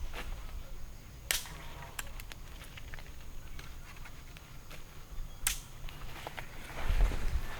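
Two sharp cracks about four seconds apart, among lighter clicks and rustling, with a dull low thump near the end.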